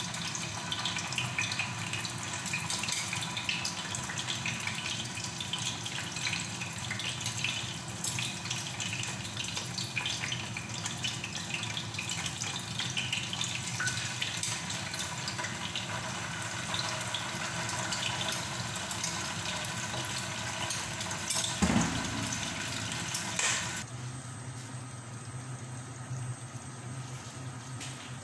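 Chicken pieces sizzling and crackling in hot vegetable oil in a pot as they are laid in with tongs. There is a single knock about three-quarters through, and the sizzling is quieter near the end.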